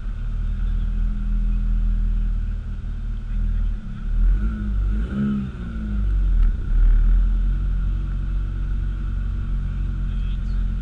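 Car engine running at low, steady revs while driving slowly, with a brief rise and fall in revs about halfway through.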